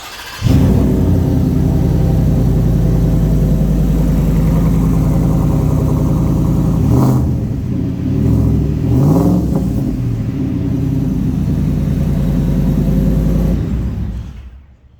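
Supercharged Ford F-150 V8 breathing through an MBRP cat-back exhaust on a cold start. It cranks briefly, catches loudly and runs at a steady fast idle, with two short revs about halfway through. The sound falls away near the end.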